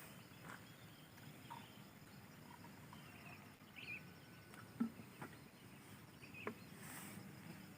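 Faint outdoor ambience: a steady thin high tone with scattered small clicks and a few short chirps, the sharpest click about five seconds in.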